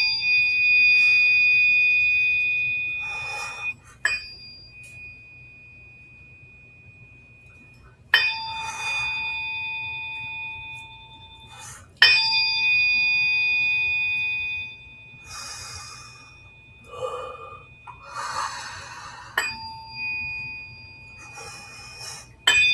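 A tuning fork struck again and again, each strike ringing out in clear steady tones that slowly fade: three strikes about eight and four seconds apart, and a fourth at the very end. Soft breathy noises come between the strikes.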